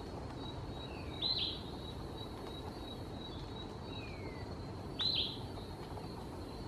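Wild forest birds calling: two loud, short, high chirps about four seconds apart, with fainter downward-sliding whistles between them. A thin, steady high tone and a low background hiss run underneath.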